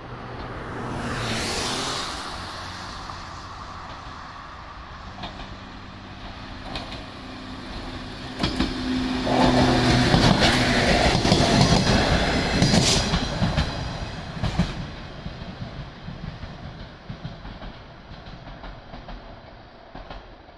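A yellow JR West 105 series electric train approaches, passes close by and draws away. A steady motor hum builds, and the wheels clatter over the track loudest from about nine to fourteen seconds in, then fade as the train recedes. A brief loud rush of noise comes about a second in.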